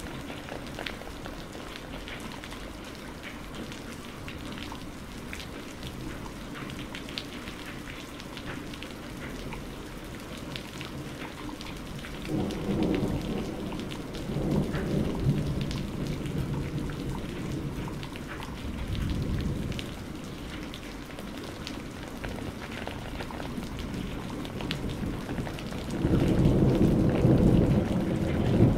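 Steady rain pattering, with thunder rumbling in low swells about twelve seconds in, again around nineteen seconds, and loudest near the end.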